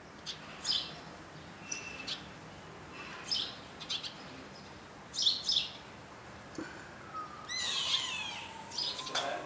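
A bird chirping: short high chirps every second or two, then a quick run of falling notes and a long sliding whistle near the end.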